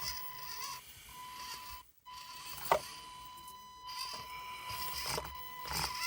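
Axial SCX24 micro crawler's small electric motor whining in a steady high tone as it crawls over 3D-printed plastic obstacles. The whine cuts out and resumes a couple of times, and there is one sharp click about two and a half seconds in.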